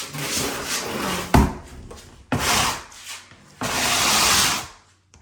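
Rubbing and scraping in three bursts about a second long, with one sharp knock about a second and a half in.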